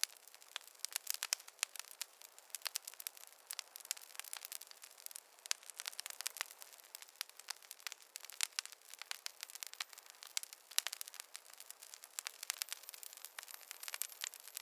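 Wood campfire crackling: a dense, irregular run of sharp pops and snaps over a faint hiss.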